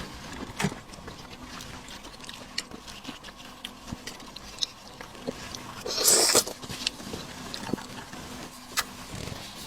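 Close-up mukbang eating sounds of seafood: wet chewing and sucking with scattered small clicks, and one louder slurp about six seconds in.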